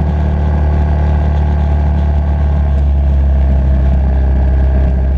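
Motorcycle engine running steadily at an even, unchanging low pitch.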